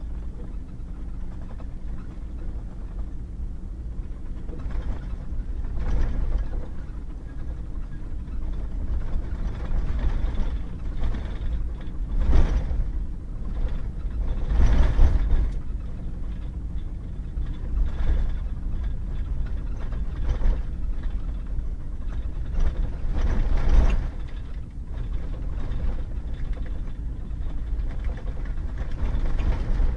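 Pickup truck driving on a wet, muddy gravel road: a steady low rumble of engine and tyres, with a few louder swells of road noise, the loudest about halfway through.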